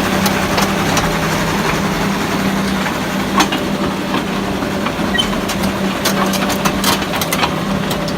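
Caterpillar D5G LGP bulldozer's diesel engine idling steadily, a constant low hum with scattered light clicks and knocks.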